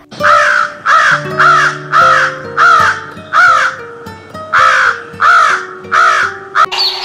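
Crow cawing in a steady series of about ten short caws, roughly two a second, over background music with sustained notes.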